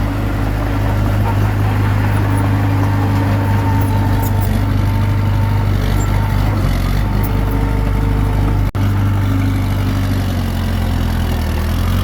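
Komatsu D21P bulldozer's diesel engine running steadily, with a brief dropout about three-quarters of the way through.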